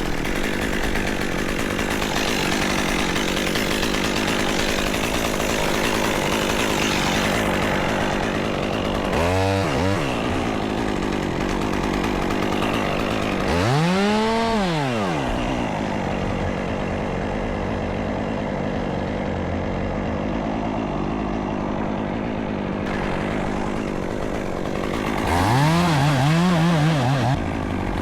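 Two-stroke chainsaw running steadily, its engine revving up and back down three times: briefly about a third of the way in, more fully around the middle, and unevenly near the end.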